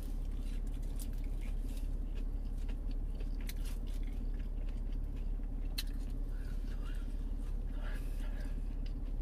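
Chewing a breaded chicken nugget, with scattered wet mouth clicks and smacks over a steady low hum.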